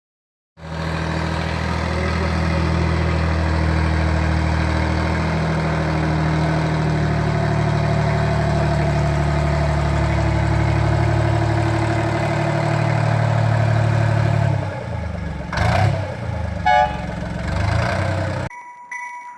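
A locomotive's engine running at a steady pitch, then becoming unsteady about 14 seconds in, with a sharp knock and a few clanks, before the sound cuts off abruptly near the end.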